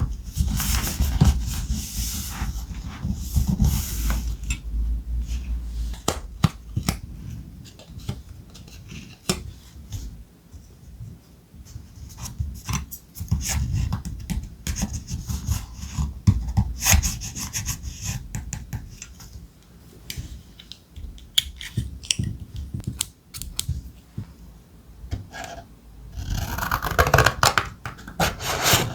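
Thick ephemera paper being handled and rubbed close to the microphone while decorating a notebook: rustling and scraping with many small taps and clicks, heaviest near the start and near the end.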